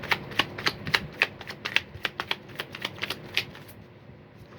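Tarot deck being shuffled by hand: a quick run of crisp card clicks and slaps that stops about three and a half seconds in.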